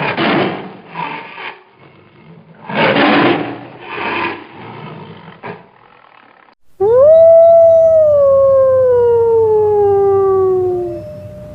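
Rough, noisy animal calls in four short bursts, then a wolf's long howl that rises quickly and slides slowly down in pitch, with a second howl beginning near the end.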